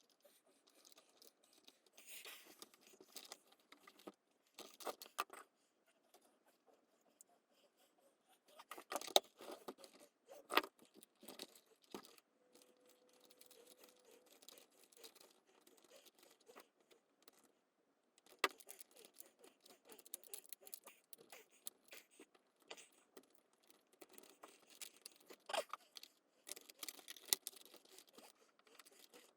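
Scattered clicks, scrapes and rattles of the coffee machine's plastic housing parts and small tools being handled while the machine is put back together. The sharpest clicks come about a third of the way in.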